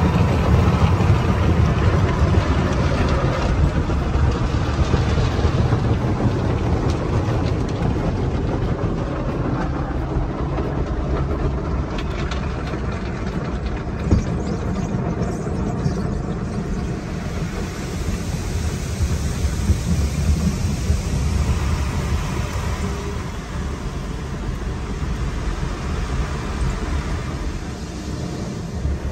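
Automatic car wash heard from inside the car's cabin: a steady rush of water spray and wash machinery working over the body and glass, with a few brief knocks about halfway through.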